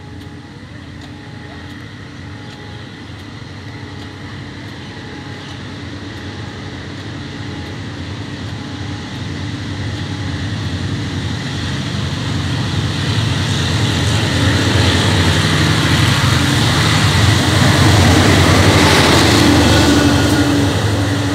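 State Railway of Thailand diesel locomotive hauling a passenger train, approaching and passing close by. The engine grows steadily louder and is loudest about eighteen seconds in as it goes by, then the coaches rumble past on the rails.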